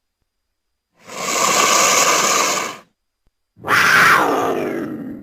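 A big cat gives two calls: first a breathy hiss lasting almost two seconds, then after a short pause a snarling call that falls in pitch.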